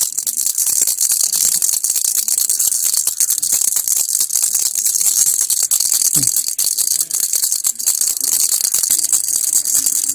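A baby rattle (kilukki) shaken steadily and quickly, its pellets making a dense, continuous high-pitched rattling. A brief low falling sound comes about six seconds in.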